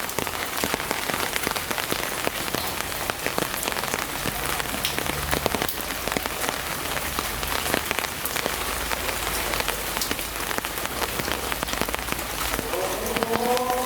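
Heavy tropical rain falling steadily, with many individual drops striking a hard surface. About a second before the end, a steady pitched tone with overtones comes in over the rain.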